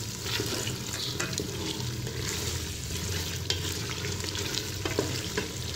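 Potato and carrot curry sizzling in hot cooking oil in a pressure cooker pot, its water already cooked off, while a wooden spatula stirs it with scattered scrapes and taps against the pan. A steady low hum runs underneath.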